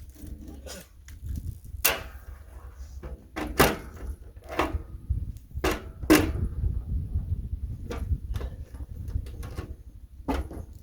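A series of irregular knocks and clunks, about half a dozen spread unevenly, over a steady low rumble.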